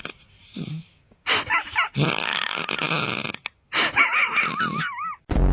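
A cat making a run of short wavering yowls, with a longer harsh growl in the middle. A steady buzzing sound starts right at the end.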